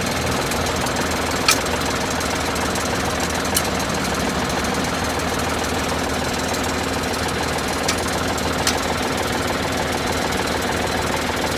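Tractor engine running steadily, with four short sharp clicks standing out over it.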